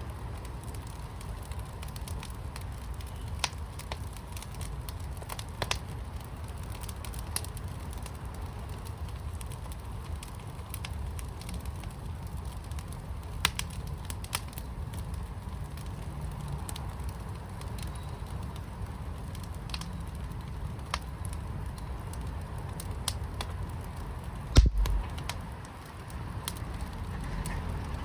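Wood fire in a fire pit burning and crackling, with scattered sharp pops over a steady low rumble. A single much louder pop or thump comes near the end.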